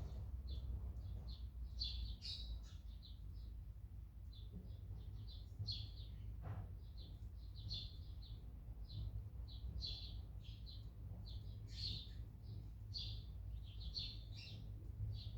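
Small birds chirping: a steady stream of short, quick chirps, several a second, over a low rumble.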